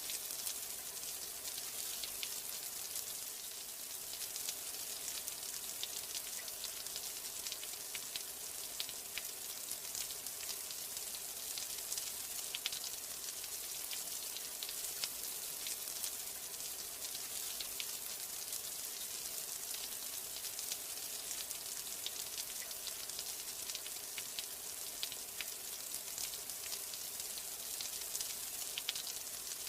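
Steady rain: a dense, even hiss with many small drop ticks scattered through it.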